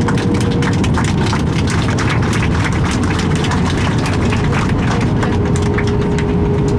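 Cabin noise inside an Airbus A319 rolling on the ground after landing: a steady, loud low rumble of engines and wheels with a thin steady hum tone, and continual quick rattling clicks from the cabin fittings.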